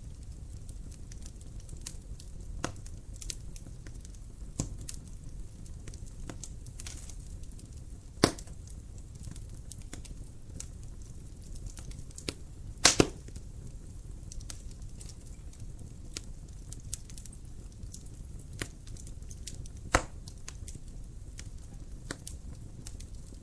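Wood fire in a fireplace burning with a steady low rumble and scattered sharp crackles and pops, a few louder snaps standing out, one a quick double pop.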